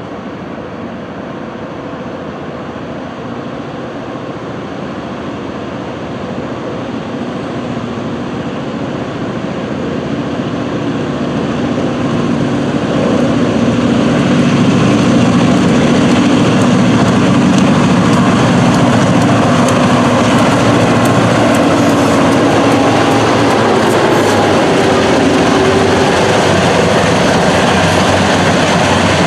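Diesel-hauled freight train approaching and rolling past, growing louder over the first half and then staying loud, with a steady low engine hum and the rapid clicking of wheels over the rail.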